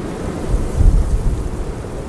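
Wind buffeting the microphone: a low rumble that swells into a stronger gust from about half a second in, for well under a second.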